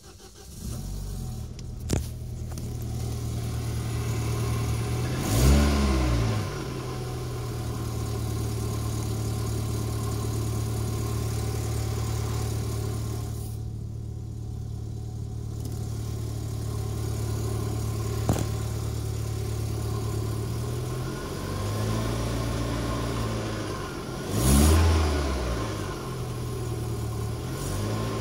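Car engine catching and settling into a steady idle, blipped twice with a quick rise and fall in revs, about five seconds in and again near the end, with a smaller blip just before the second. Two sharp clicks come through, at about two and eighteen seconds in. The owner suspects a faulty exhaust manifold.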